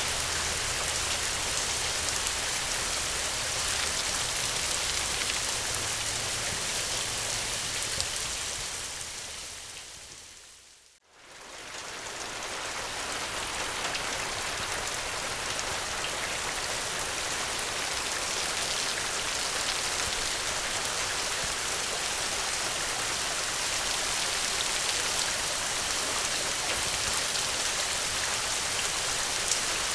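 Steady rain, an even hiss of many drops. About a third of the way in it fades away over a couple of seconds to near silence and quickly swells back, like the seam where a looped recording restarts.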